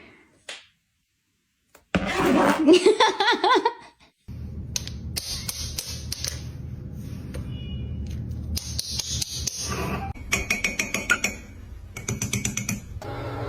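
A parrot's beak tapping against window glass in quick runs of sharp taps over the last few seconds, after a short warbling vocal sound about two seconds in. A steady low hum runs underneath.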